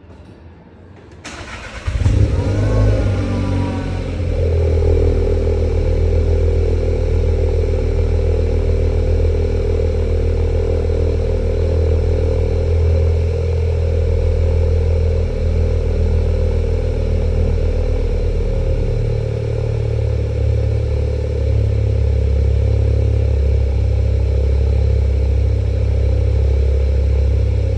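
Audi RS3's five-cylinder engine cold-starting through a cat-back exhaust: a brief crank about a second in, a loud rev flare on catching that falls away over a couple of seconds, then a steady high cold-start idle.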